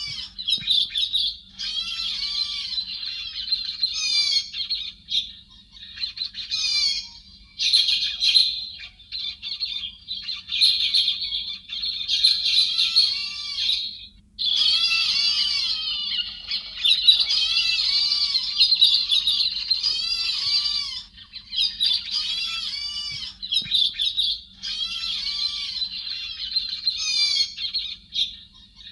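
Recorded calls of the chim héc xoan, a thrush: dense, rapid chattering phrases of quick rising-and-falling notes, in bursts of a few seconds with brief pauses. A faint low hum runs underneath.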